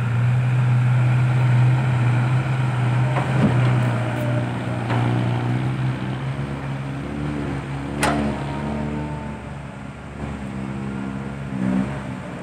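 Heavy diesel engine running steadily at an even pitch, slowly growing quieter. There is one sharp click about eight seconds in.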